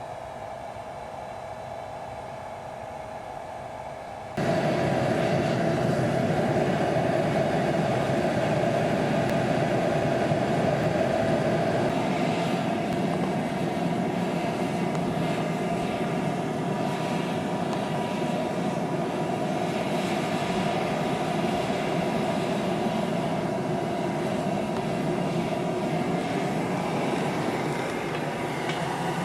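Blower forcing air into a backyard aluminium-melting furnace: a steady rushing roar with a constant hum, which steps up sharply louder about four seconds in and stays there.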